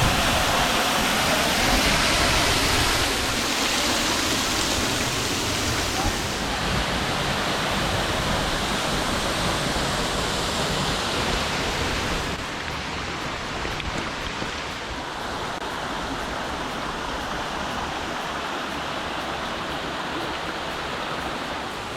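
Waterfall rushing: a steady noise of falling water, which drops a little in level about halfway through.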